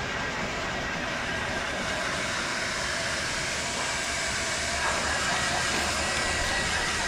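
Steady rushing hiss of a blow dryer blowing air over a wet, freshly bathed dog.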